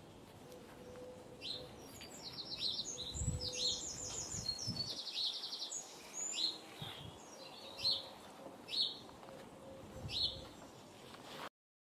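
Small songbirds singing: a few quick trilled phrases in the first half, then single short falling chirps about once a second. A few soft low thumps sound under the song about three to five seconds in.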